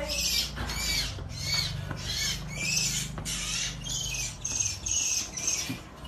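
A bird caught by a cat giving repeated high-pitched distress calls, about two a second, that stop shortly before the end.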